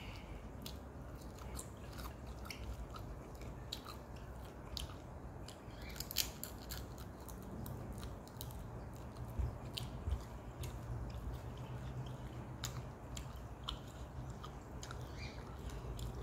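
A person chewing and eating rice and fried noodles by hand, with irregular small mouth clicks scattered through, over a steady low hum.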